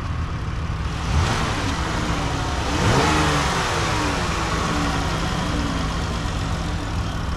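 2016 Dodge Grand Caravan's 3.6-litre Pentastar V6 idling, blipped briefly about a second in, then revved once about three seconds in, its pitch rising and then falling slowly back to idle.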